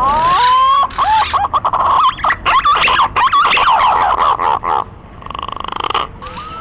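Green pigeon (punai) calls played as a hunting lure: whistled notes that glide upward, building into a fast warbling run in the middle.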